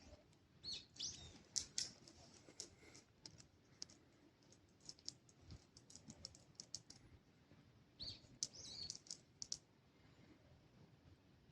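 Near silence broken by faint, high bird chirps, about a second in and again about eight seconds in, with scattered light ticks throughout.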